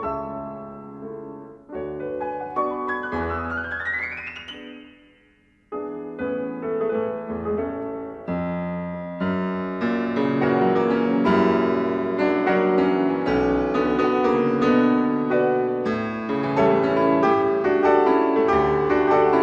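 Background piano music: a quick rising run about three seconds in, a brief pause, then fuller, louder playing.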